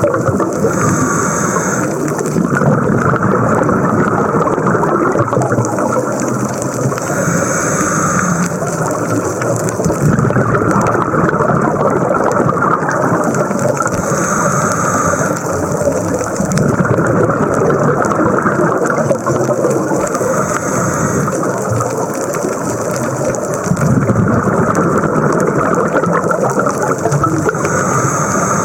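Scuba diver breathing through a regulator, recorded underwater: a steady rush and rumble of exhaled bubbles, with a short hiss of inhalation about every six to seven seconds.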